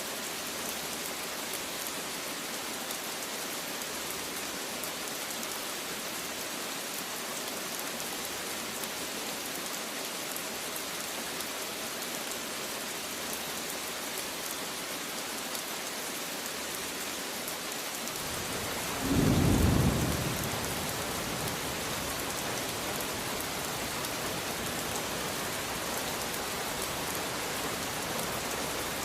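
Steady rain falling, an even hiss throughout. About two-thirds of the way in a thunderclap rumbles deep and loud for a couple of seconds, the loudest sound, and the rain carries on with a fuller low rumble after it.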